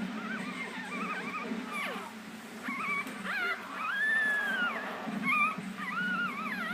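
Week-old Shichon puppy whimpering and squealing in a string of short rising-and-falling cries, with one longer arched whine in the middle. The owner takes the crying for hunger.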